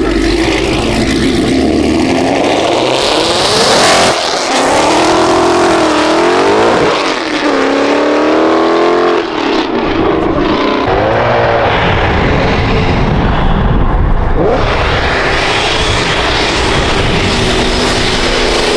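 High-performance car engines revving hard and accelerating away. The engine note climbs and drops several times, with a loud rising sweep about four seconds in and another long climb near the middle.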